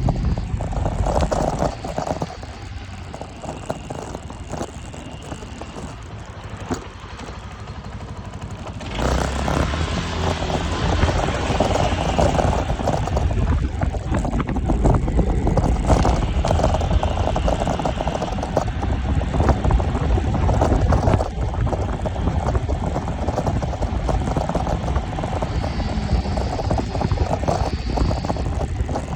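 Wind buffeting the microphone over the rumble of a moving vehicle. It grows louder about nine seconds in.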